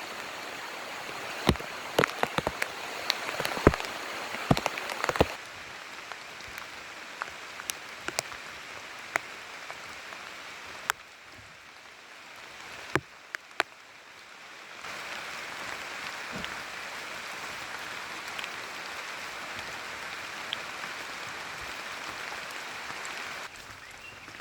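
Rain falling steadily, with big drops ticking sharply on a nearby surface, densest during the first five seconds. The hiss drops and rises in level a few times.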